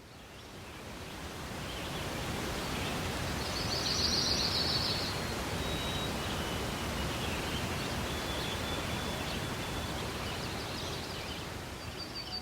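Outdoor countryside ambience: a steady rustling noise that fades in over the first two seconds, with birds calling over it: a burst of high chirps about four seconds in, thin whistled notes afterwards, and more chirps near the end.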